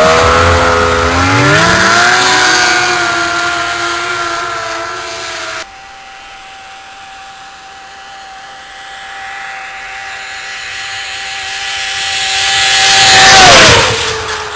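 1991 Polaris Indy 650 snowmobile's three-cylinder two-stroke engine revving up as it pulls away, then a steady high drone at full throttle that grows louder as the sled closes in at about 90 mph. It passes with a sharp drop in pitch near the end.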